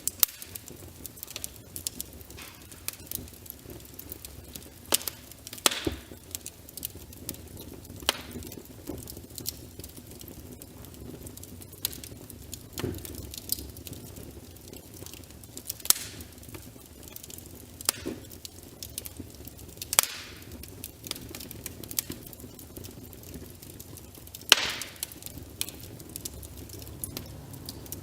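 Wood fire in a fireplace crackling, with irregular sharp pops over a low steady rush; the loudest pop comes near the end.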